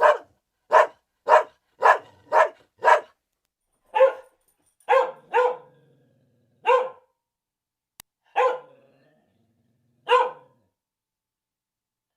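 A dog barking repeatedly: a quick run of six barks about two a second, then slower barks spaced a second or two apart.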